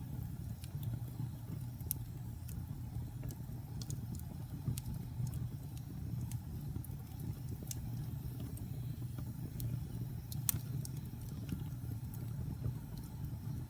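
Wood-burning fire crackling: irregular sharp pops and snaps over a steady low rumble of the flames, with one louder pop about ten and a half seconds in.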